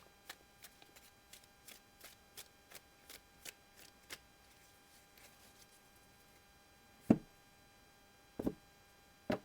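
Deck of tarot cards being shuffled by hand: light, regular ticks about three a second for the first four seconds. Then three soft thuds as the deck is cut into three piles on the table, the last near the end.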